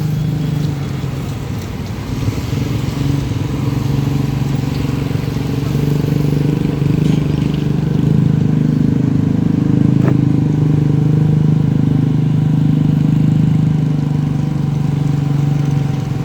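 A large engine, as of heavy construction machinery, running steadily at a low, even pitch and growing a little louder about six seconds in. There is one brief click about ten seconds in.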